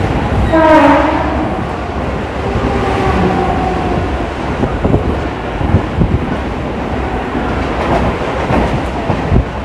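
Mumbai suburban electric local train running at speed, heard from on board: a steady rumble with wheels clacking over rail joints. About a second in, a short pitched tone falling slightly in pitch stands out as the loudest sound.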